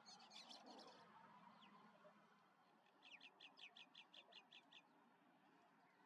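Faint bird calls: a brief run of sharp clicking notes at the start, then, about three seconds in, a quick run of about a dozen short high notes, some six a second.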